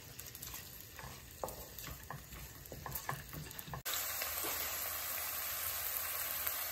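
Ginger-garlic paste and whole spices sizzling in hot oil in a non-stick pan, with a wooden spatula scraping and tapping the pan as it stirs. About four seconds in, the sound jumps to a louder, steady sizzle.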